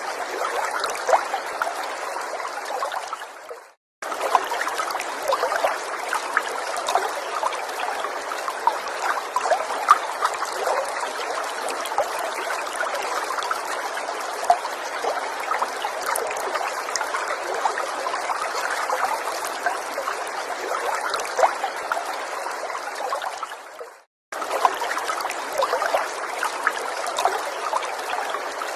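A small forest stream trickling and splashing over stones, a steady wash of water with many small droplet splashes. It fades and cuts out briefly twice, about four seconds in and again near the end, then resumes as before.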